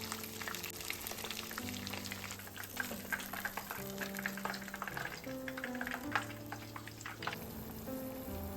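Food frying in a pan, with an irregular sizzling crackle, over soft background music with slow held notes.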